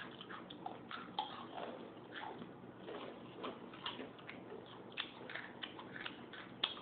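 Faint crunching of Takis rolled tortilla chips being bitten and chewed, a string of small irregular crisp crunches.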